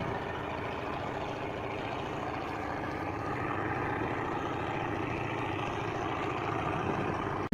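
A boat's engine running steadily, an even rumble with no change in pace, cutting off abruptly at the very end.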